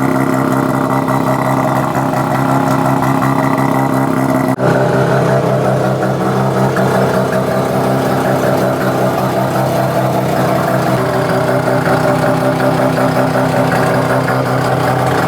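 Mazda RX-7 FC3S's naturally aspirated, half-bridge-ported 13B rotary engine idling through an aftermarket exhaust, with a brief break about four and a half seconds in.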